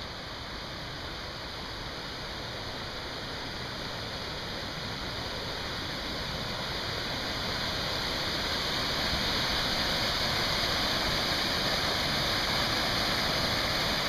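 Waterfall rushing, a steady roar of falling water that grows gradually louder as it is approached.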